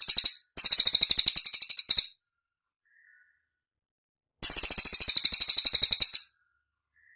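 Cililin songbird singing: fast, high-pitched rattling trills in three phrases of one to two seconds each, with short silent gaps between them. A faint short chirp falls in the middle gap and another near the end.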